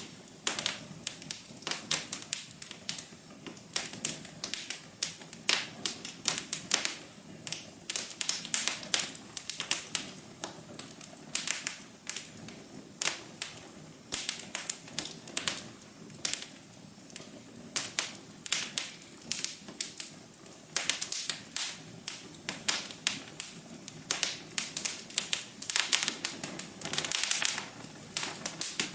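Wood fire crackling in a fireplace: irregular sharp pops and snaps, several a second, over a soft steady hum.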